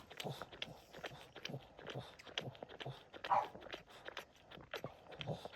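A newborn Boston Terrier puppy gives one short squeak a little over three seconds in, over soft clicks and rustling as it is handled on the bedding.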